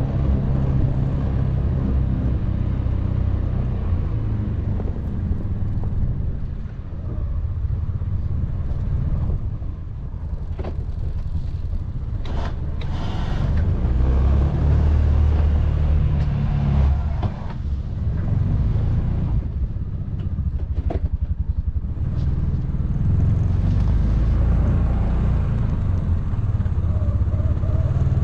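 Can-Am Defender side-by-side's engine running under load while plowing snow, its note rising and falling, with a few short knocks and clunks along the way.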